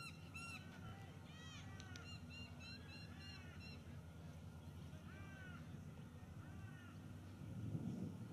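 A bird calling, a quick run of short harsh calls at the start, then scattered single and paired calls. Under it a steady low rumble that swells near the end.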